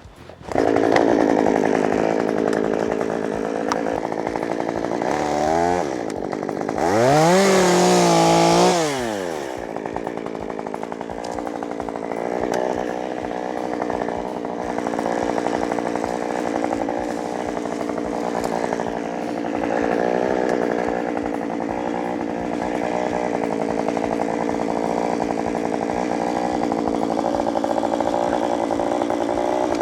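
Two-stroke chainsaw running, cutting in suddenly just after the start. It revs up and back down briefly around five seconds in, and again, loudest, from about seven to nine seconds in, then runs on steadily.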